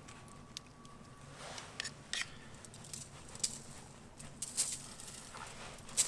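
Scattered light clicks and taps of small objects being handled, irregular and about a dozen in all, the loudest near the end, over a faint steady low background.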